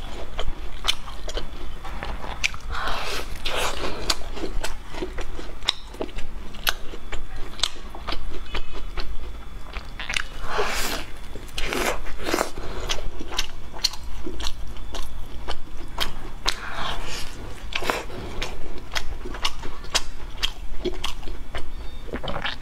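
Biting and chewing of crusty deep-fried bread, with many sharp crunches and crackles of the crust between softer chewing sounds.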